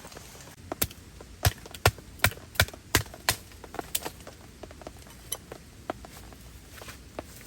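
A run of about seven sharp knocks, close together, then a few lighter taps, like wood being struck with a hatchet or a mallet.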